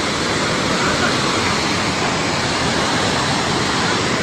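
Steady rush of a flash-flood torrent, dense water noise that cuts off suddenly at the end.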